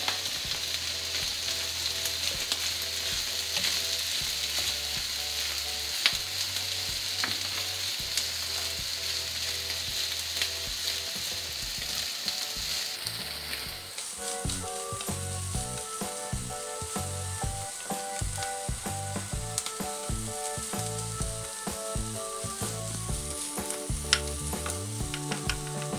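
Cold cooked rice and egg yolk sizzling in oil on an electric griddle while being stirred and turned with a wooden spatula, which scrapes and taps against the plate now and then.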